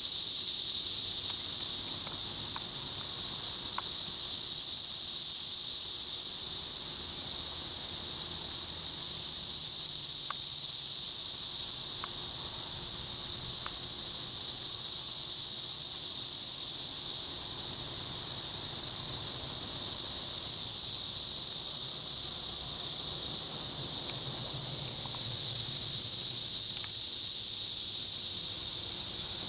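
Chorus of 17-year periodical cicadas: a loud, steady, high-pitched drone that never lets up.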